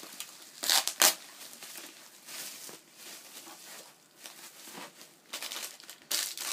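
Plastic packaging and bubble wrap being torn and pulled open by hand, in irregular rustles and crinkles with two sharp tearing bursts about a second in and more near the end.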